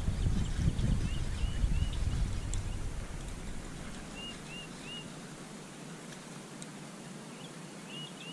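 A bird calling in short rising chirps, two or three at a time, repeated every few seconds. A low rumble sits under the first few seconds and then fades.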